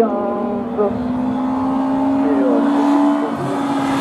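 Race car engine held at high revs, its pitch rising slowly and dipping briefly about three seconds in.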